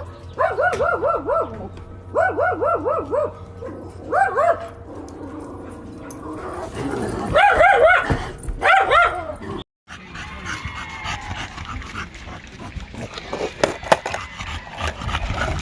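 A dog giving runs of quick, high-pitched yips, several a second, in bursts of about one second with short gaps between them. About ten seconds in the sound cuts out briefly, and rustling and clicking noise follows.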